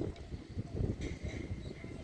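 Wind buffeting the microphone as an uneven low rumble, with faint bird calls about a second in.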